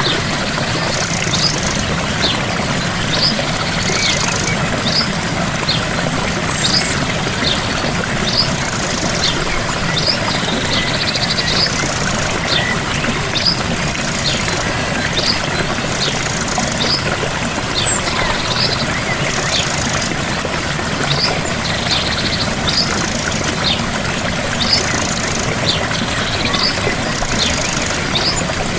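Gentle waterfall running as a steady rush of water, with a bird repeating short high chirps about once a second and brief higher trills every few seconds.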